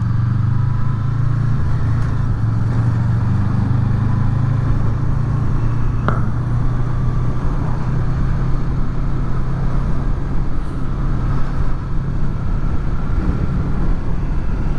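Honda VFR800's V4 engine running at a steady road speed, with wind noise over helmet microphones fitted with furry windshields. The wind turns gustier and more uneven from about five seconds in.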